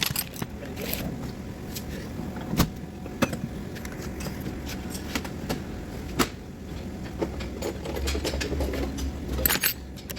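Scattered sharp clicks and knocks of work on a car over a steady low rumble, with a louder low hum for a second or two near the end.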